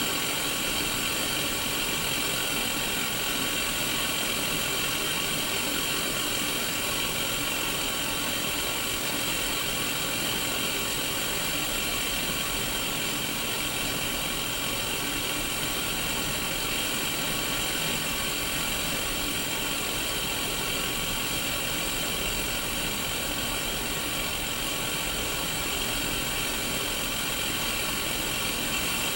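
Static hiss from a Sony Mega Watchman black-and-white portable CRT television showing white noise, heard through its small speaker: a steady, even hiss, strongest in the upper middle, with faint steady tones running through it.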